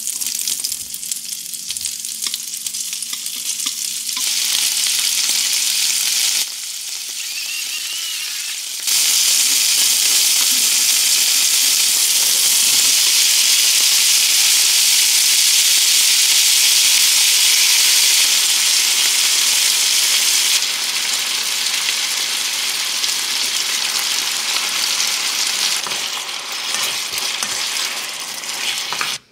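Garlic frying in butter, then beef and chopped vegetables, sizzling in a nonstick frying pan as they are stirred with chopsticks. The sizzle turns abruptly louder about nine seconds in and eases off again after about twenty seconds.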